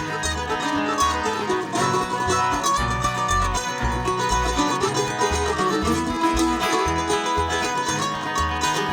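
Live bluegrass band playing an instrumental passage: plucked string instruments over a steady bass line of about two notes a second.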